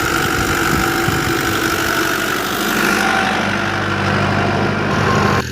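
Farm tractor's diesel engine running steadily at idle. The sound changes abruptly near the end.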